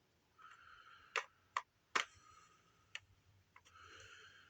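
Hard plastic toy pieces clicking and tapping as power coins are fitted into a plastic display stand: about five sharp clicks spread over a few seconds, the loudest near the middle, with soft scraping of handling in between.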